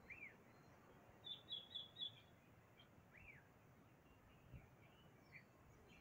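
Faint wild birdsong: a quick run of about five high chirps about a second in, and single arched whistled notes at the start and about three seconds in, with scattered fainter chirps over quiet background noise.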